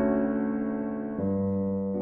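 Slow, calm keyboard music: sustained piano-like chords that ring out and fade, with a new chord struck about a second in.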